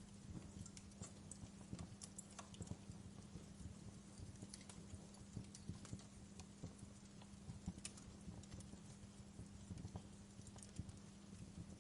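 Wood fire in a fireplace crackling, with irregular sharp pops and snaps over a steady low hum.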